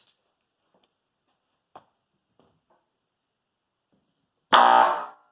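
A loudspeaker wired straight to household mains gives a loud, harsh buzz at mains frequency about four and a half seconds in, lasting about half a second before fading, after a few faint clicks.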